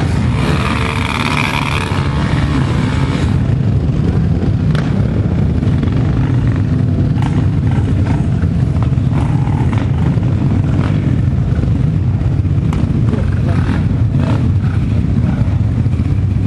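Engines of off-road motorcycles and quads running steadily close by, with people's voices in the background.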